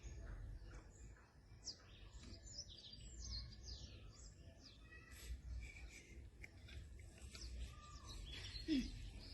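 Faint bird chirps, a run of short quick calls, over a low steady background rumble.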